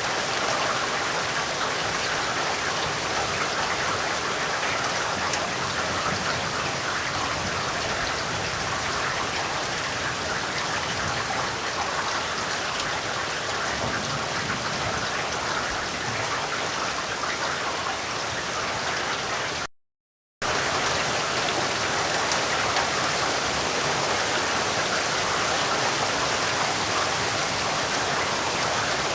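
Steady rain falling, an even dense hiss of drops with no thunder. It cuts to silence for under a second about two-thirds of the way through, then resumes unchanged.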